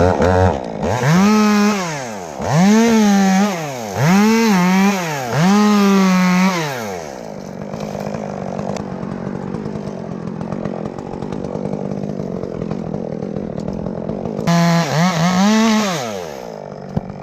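Chainsaw engine revved in four full-throttle bursts, each rising and falling in pitch, then running lower and steadier for several seconds before one more burst near the end.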